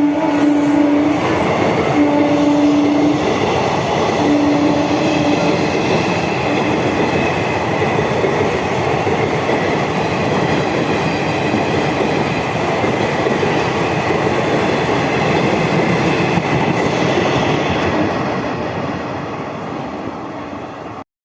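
Indian Railways express train passing at speed, its locomotive horn sounding three blasts in the first five seconds over the rush and rattle of the coaches. The train noise fades near the end and cuts off abruptly.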